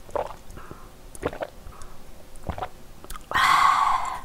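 A person gulping a drink from a glass: three separate swallows about a second apart. Near the end comes a louder rushing noise lasting about a second.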